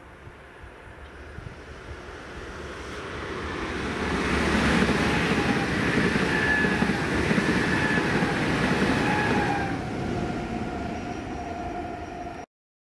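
ČD class 680 Pendolino electric tilting train passing at speed: a rush of wheels on rail and air that builds as it approaches, is loudest as the train goes by with a thin whine over it, then eases. The sound cuts off suddenly near the end.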